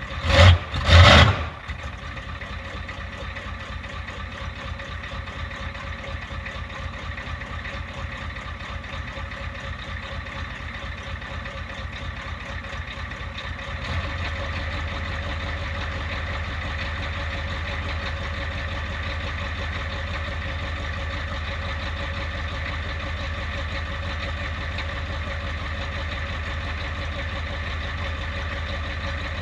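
1993 Ford F-350's 7.3 IDI diesel idling steadily, still cold after a start at about 15°F. It opens with two short, loud noises. About 14 s in, the low rumble steps up and stays louder.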